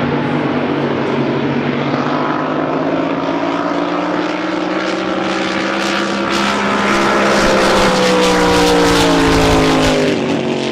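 Drag boat engine running at a steady pitch, then climbing slowly in pitch and getting louder and rougher before dropping off about ten seconds in.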